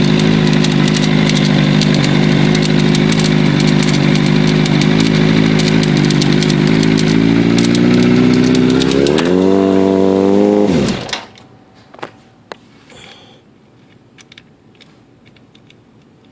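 Katana motorcycle engine idling with a clicking rattle, the rattle this video records. The pitch rises slightly about nine seconds in, then the engine winds down and stops about eleven seconds in, leaving only a few faint clicks.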